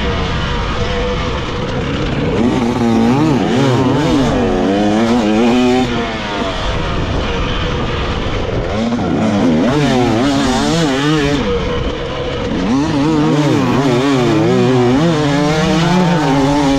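Dirt bike engine being ridden hard, its pitch rising and falling over and over with each burst of throttle and change of gear.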